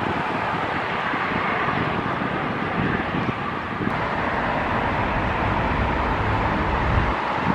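Jet airliner engines and airflow as a plane comes in to land, a steady rush with a low rumble that builds in the second half.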